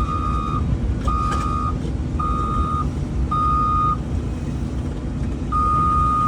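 Vehicle backup alarm beeping at one steady pitch, each beep a little over half a second long, about once a second; the beeps pause for about a second and a half in the middle, then start again. A steady low rumble runs underneath.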